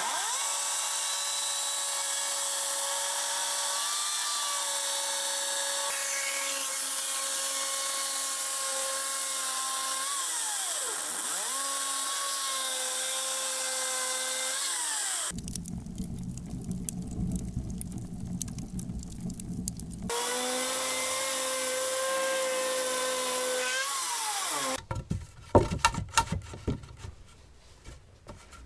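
A power tool working wood: a steady high motor whine that sags in pitch under load and recovers. It gives way for a few seconds to a rougher, lower grinding, comes back, and then stops. A series of sharp knocks follows near the end.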